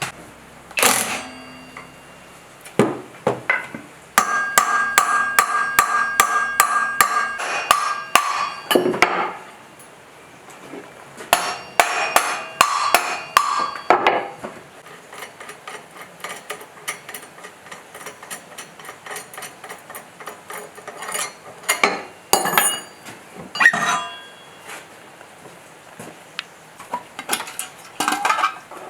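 Hammer blows on metal in two quick runs of about four strikes a second, each blow ringing, followed by scattered single taps.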